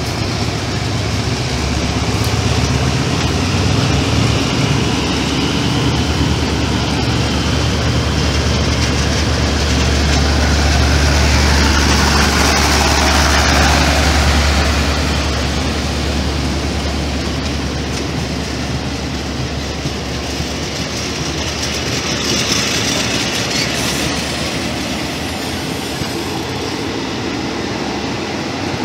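State Railway of Thailand passenger coaches rolling past close by, their wheels running on the rails in a steady, continuous noise over a low hum. The noise swells to its loudest about halfway through, then eases a little.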